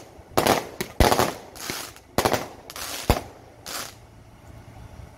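Firecrackers going off in irregular bursts of sharp bangs, with two especially sharp cracks about a second in and about three seconds in; the bangs stop near the end.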